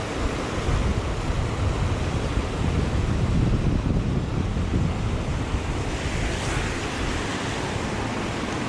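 Small mountain creek rushing steadily, with wind buffeting the microphone as a fluctuating low rumble. About six seconds in the buffeting eases and the water's hiss sounds brighter.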